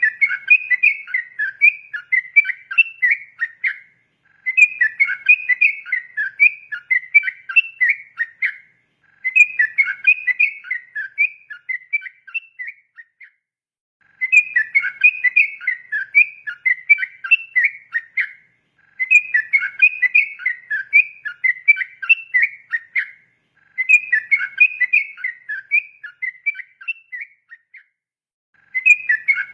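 Yellow-vented bulbul (trucukan) singing: a long, bubbling phrase of quick warbled notes lasting about four seconds, repeated about every five seconds with short pauses between.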